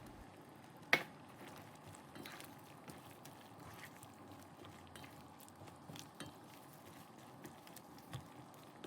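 Faint cooking sounds from a pan of curry on the stove: one sharp clink of a utensil against the pan about a second in, then soft scattered clicks and clatter.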